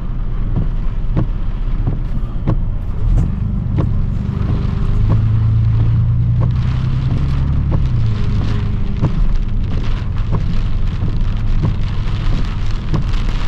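Truck engine running, heard from inside the cab, growing louder for a few seconds midway as it pulls ahead, with scattered raindrops ticking on the roof and windshield.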